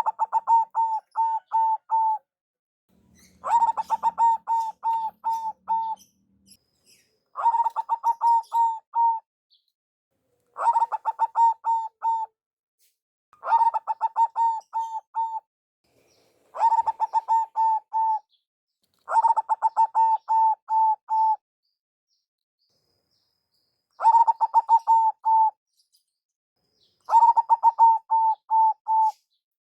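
Zebra dove (perkutut) singing: nine phrases of quick, rhythmic cooing notes, each about two seconds long and repeated roughly every three seconds, with one longer pause past the middle.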